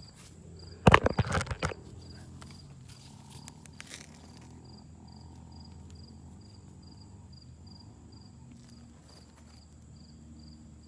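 A brief clatter of plastic action figures being knocked together, about a second in. Behind it a faint, high-pitched chirp repeats about three times a second.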